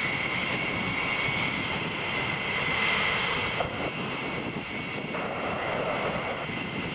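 Military jet aircraft engine noise: a steady rush with a high whine, easing off slightly a little past halfway.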